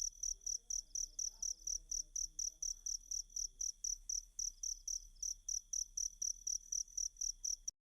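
Cricket chirping in an even, steady train of high-pitched chirps, about five a second. The sound cuts off suddenly near the end.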